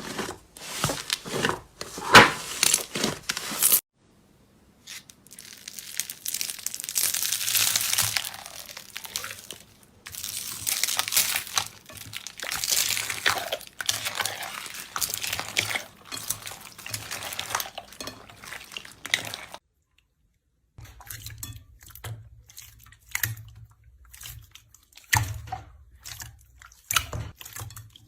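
Hands playing with slime: squishing, crackling and popping in close-up, in several short clips cut together, with brief silences between them about 4 and 20 seconds in.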